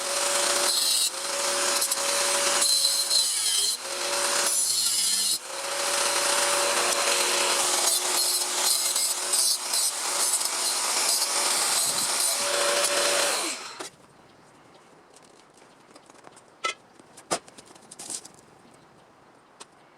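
Handheld electric power tool working sheet steel: a loud, harsh running noise with a steady whine that dips briefly a few times, as if the trigger is eased, and stops about fourteen seconds in. A few light knocks follow near the end.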